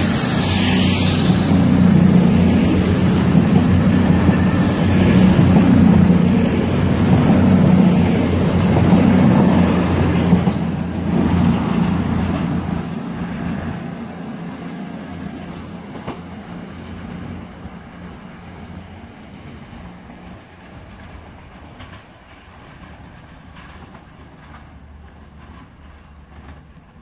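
A CrossCountry diesel train running past along the platform: a steady engine hum with a high whine and wheels clattering over the rails. About ten seconds in it starts to fade, and it dies away slowly as the train draws off into the distance.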